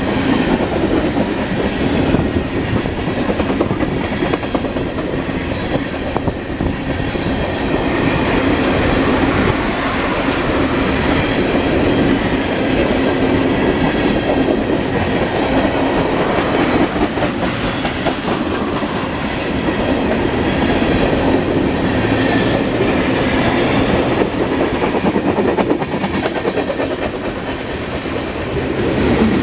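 Norfolk Southern mixed freight train's cars rolling past at close range: a loud, steady rumble of steel wheels on the rails.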